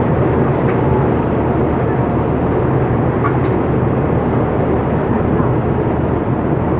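Diesel-hauled passenger train pulling into a station: a steady, loud rumble of engine and wheels on rail.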